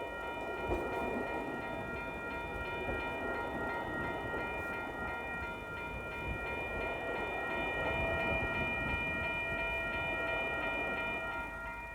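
A train passing over a level crossing, its rumble building to a peak late on and easing near the end, while the crossing's electronic warning bells ring on in a quick, steady repeated strike.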